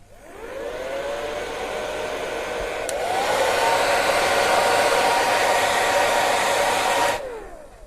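A household appliance's electric motor starts up with a rising whine and rush of air, steps up to a higher, louder speed about three seconds in, then switches off and winds down near the end.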